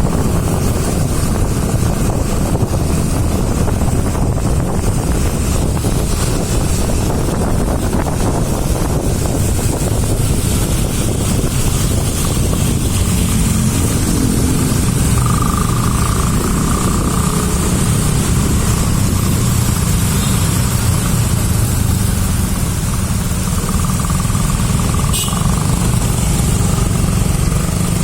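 Road traffic in a jam: a steady, loud low rumble of vehicle engines and tyres. A faint high tone rises out of it twice.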